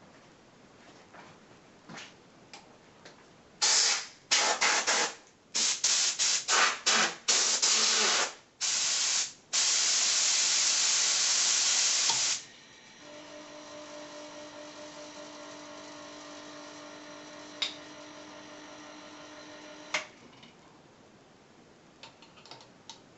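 Compressed air let out in a series of short spurts, then in a continuous hiss for about three seconds. Then a homemade silent air compressor runs with a steady hum for about seven seconds and cuts off with a click.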